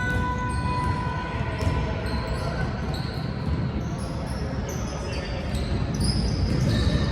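Basketball game play in a gym: the ball bouncing on the court and short, high sneaker squeaks, over the steady noise of the hall.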